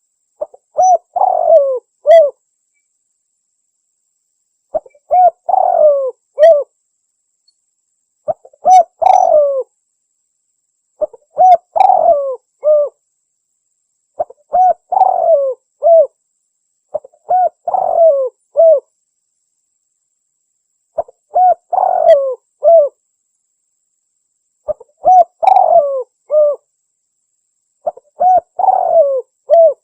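Spotted dove cooing as a hunter's lure call: a phrase of several coos, repeated about every three seconds with dead silence between.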